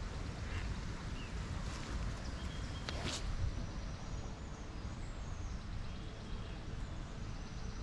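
Outdoor background noise: a steady low rumble with a few faint bird chirps, and one sharp click about three seconds in.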